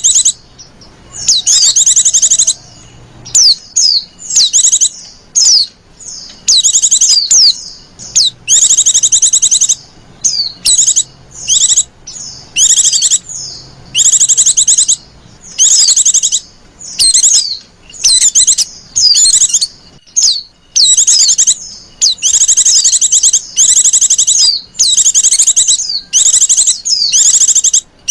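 Female white-eye (pleci) giving loud, high, rapidly trilled calls in short bursts of under a second to about a second and a half, one after another with brief gaps. This is the female's call used to lure male white-eyes.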